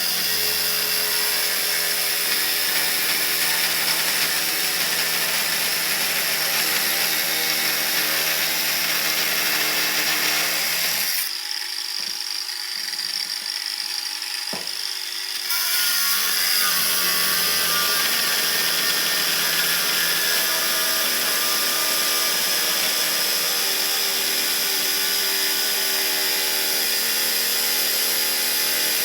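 A power tool running steadily while a low loss header is fabricated, with a few seconds near the middle where the low part of the sound drops away before it resumes.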